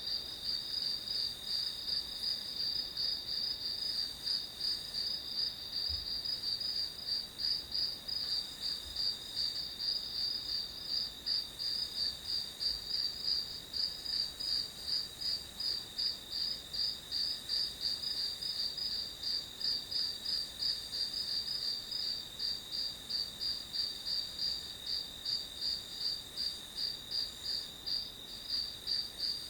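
Crickets chirping: a steady, high, evenly pulsing chorus with a continuous trill beneath it.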